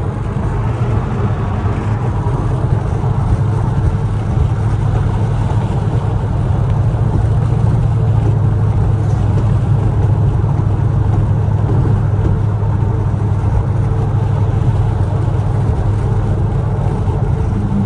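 Chevrolet Camaro SS's 6.2-litre V8 with a muffler delete, cruising: a steady low exhaust drone, a little louder in the middle stretch.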